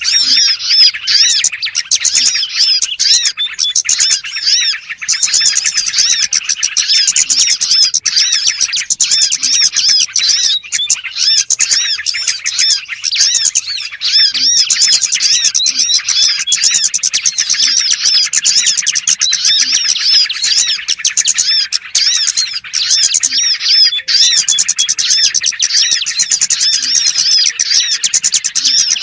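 A dense, unbroken chorus of many small birds chirping and twittering over one another. It is a bird-trapping lure recording of small-bird calls.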